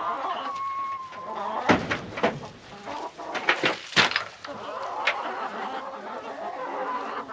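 Chickens clucking, with drawn-out hen calls, broken by several sharp knocks and clatters about two seconds in and again around four seconds in.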